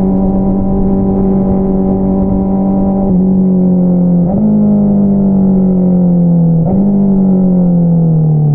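Honda CBR650R's inline-four running through an Akrapovič single-outlet exhaust, holding steady revs for about three seconds. The throttle then closes and the revs fall, with two downshifts, each a quick jump in engine pitch followed by a falling tone as the bike slows on engine braking.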